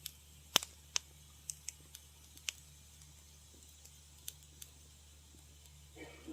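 Wood fire crackling in a fireplace: irregular sharp pops and snaps, the loudest about half a second in, with a soft steady low hum beneath and a brief softer rush near the end.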